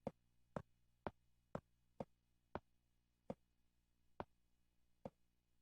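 A series of faint, sharp clicks, about two a second at first, slowing to about one a second in the second half.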